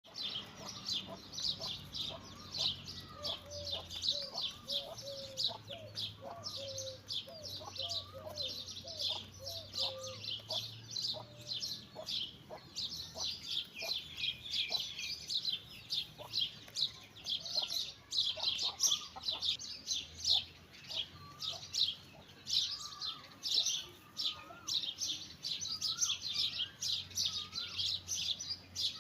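Chickens calling: scattered short, lower, gliding calls, mostly in the first half and again near the end, over a dense, unbroken chatter of high-pitched chirps.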